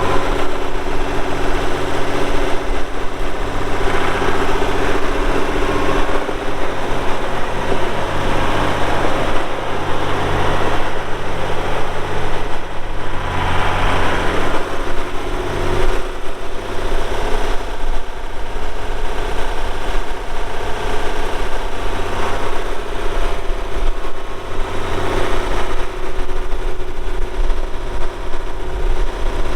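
The 1967 Oliver 1750's six-cylinder diesel engine running steadily, its note swelling louder several times as it is revved or put under load.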